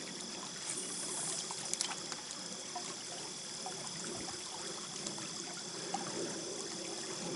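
Small trout stream flowing and trickling steadily, with a couple of faint ticks.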